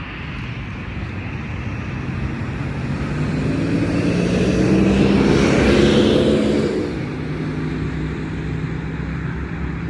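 A road vehicle passing by, its engine and tyre noise swelling to a peak about six seconds in and then fading, over a steady wash of highway traffic.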